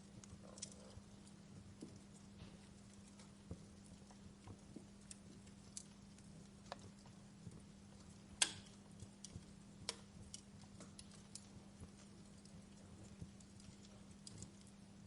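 Wood fire crackling in a fireplace: faint, irregular pops and snaps, with one sharper pop a little past halfway, over a steady low hum.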